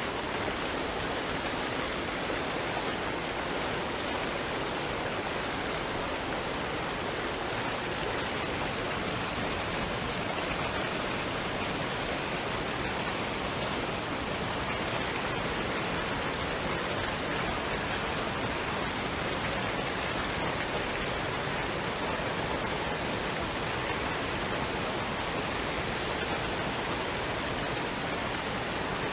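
Waterfall and stream water rushing in a steady, even roar with no separate splashes or breaks.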